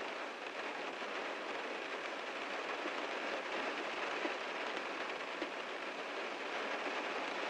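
Heavy rain drumming on a car's roof and body, a dense steady patter of many drops.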